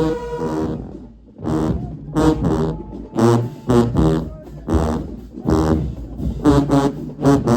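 Marching band brass section playing a rhythm of short, punched notes with low, buzzy tones, after a brief pause about a second in.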